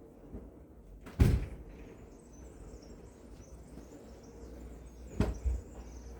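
Two sharp knocks about four seconds apart, the first the louder, like a door or cupboard being shut during household cleaning.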